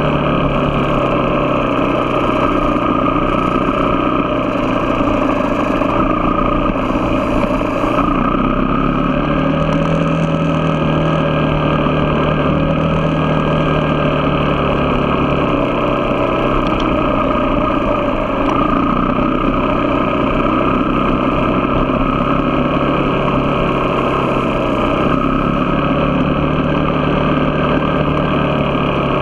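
A motor vehicle's engine runs steadily while driving. Its pitch rises slightly about a third of the way in and shifts again about halfway through.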